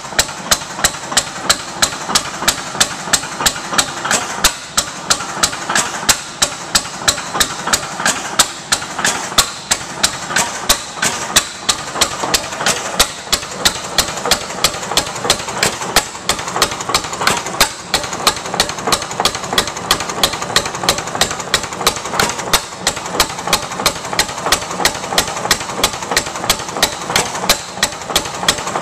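Ruston Hornsby 6 1/2 HP single-cylinder hit-and-miss gas engine running, with sharp clacks repeating evenly about three to four times a second.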